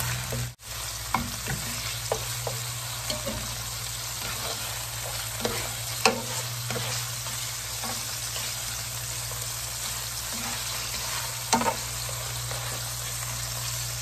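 Shrimp and chopped garlic sizzling in oil in a nonstick frying pan, stirred and turned with a spatula that clicks and scrapes against the pan now and then. The sizzle drops out for a moment about half a second in.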